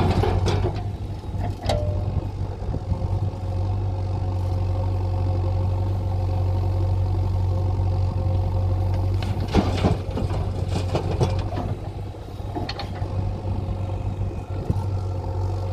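Heavy diesel engine idling steadily, with a few short metallic knocks and clatters, a cluster of them about ten seconds in.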